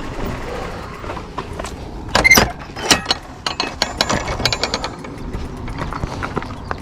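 Irregular mechanical clicking and rattling from a mountain bike being handled, with sharper knocks about two and three seconds in.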